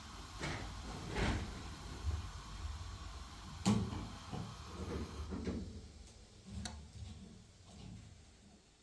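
Scattered light knocks and thuds of things being handled, the loudest a little under four seconds in.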